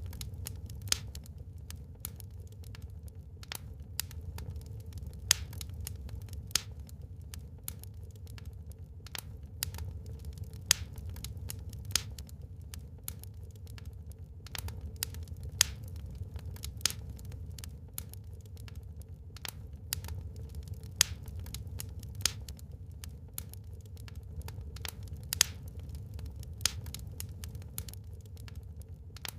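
Wood fire burning in a fireplace, crackling: irregular sharp pops and snaps, a few much louder than the rest, over a steady low rumble.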